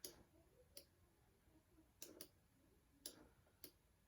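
Faint computer mouse clicks, about six at irregular intervals, with a quick double click about two seconds in.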